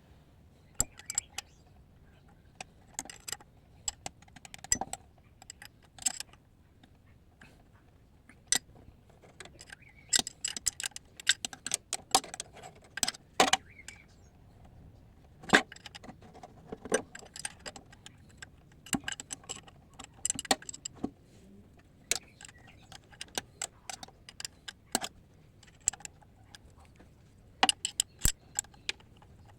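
A spanner clinking against the oil pump bolts and surrounding metal as they are worked loose. The clicks are sharp and irregular and come in scattered clusters throughout.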